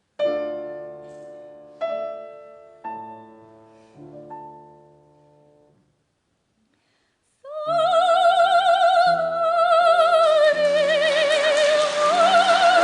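A piano strikes four chords that ring and fade away. After a short silence, a soprano enters about seven and a half seconds in, singing long, high notes with wide vibrato over piano accompaniment.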